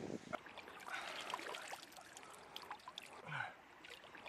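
Shallow river water trickling, with small irregular splashes and drips.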